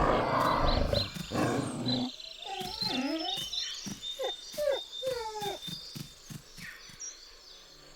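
Wolves snarling and growling in a scuffle. About two seconds in this gives way to a wolf pup whining and yelping in a string of short, falling whimpers: a plea of submission to an adult.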